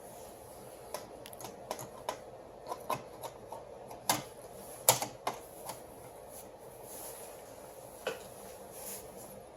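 Irregular sharp clicks and light knocks of copier fuser unit parts being handled and fitted, a few a second with pauses, the loudest about four and five seconds in.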